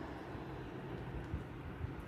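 Steady outdoor noise with wind rumbling unevenly on the microphone.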